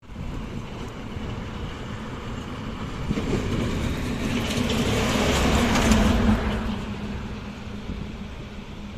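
A vehicle passing close by: its engine hum and rushing noise build to a peak about six seconds in, then fade away.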